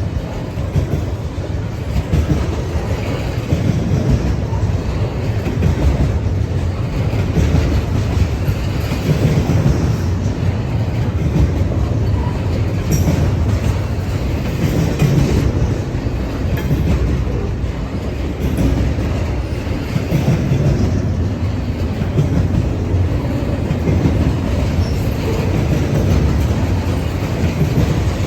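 Norfolk Southern freight train rolling past, a steady rumble of wheels on the rails.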